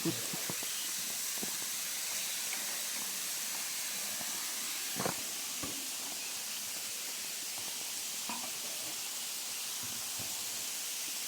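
Steady rushing hiss of a waterfall, with a few short knocks, the loudest about five seconds in.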